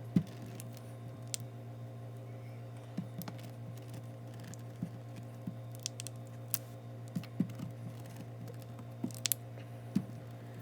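Scattered light clicks and taps from hands rolling and pressing down a glued dog-door flap, over a steady low hum.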